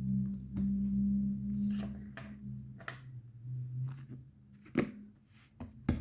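Small plastic bags and stickers being handled: light rustling and a few short sharp clicks, two louder ones near the end. A low hum-like tone that steps between two pitches runs under the first half.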